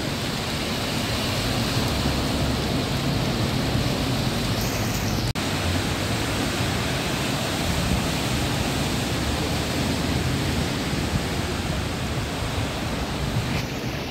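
Steady rush of rain and car tyres splashing through floodwater on a flooded road. It breaks off for an instant about five seconds in.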